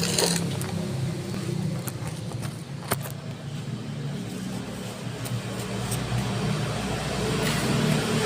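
A car engine running steadily, with a few sharp clicks, the clearest about three seconds in.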